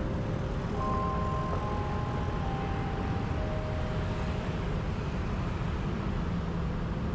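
Steady low rumble of city ambience with soft background music of long held chords over it.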